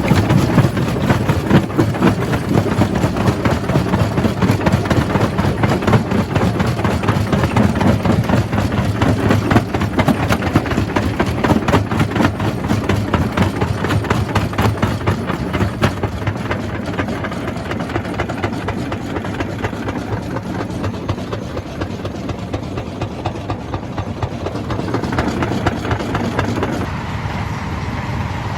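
Jaw crusher running and crushing rock: dense crunching and rattling over a steady low machine hum. The crunching thins out and gets a little quieter past the middle.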